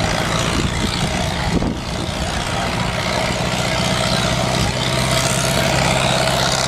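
Pulling tractor's engine running steadily at low speed, its pitch stepping slightly lower a little past halfway.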